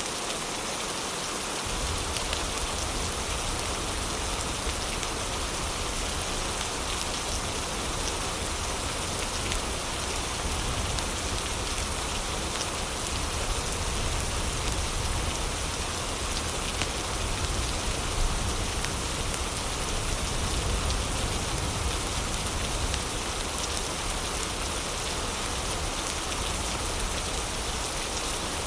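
Heavy, steady rain falling in a dense, even hiss. A low rumble comes in underneath about two seconds in.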